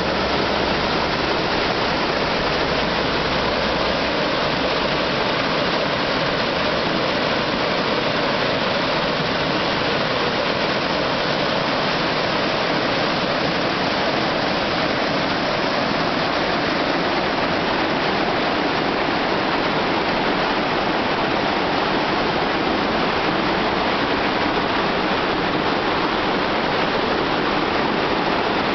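Spring water pouring and splashing over rocks at the Mount Shasta head spring. It makes a steady, unbroken rush of water.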